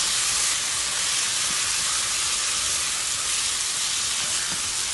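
Garlic, onions and tomatoes frying in hot oil and curry paste in a pan: a steady sizzling hiss.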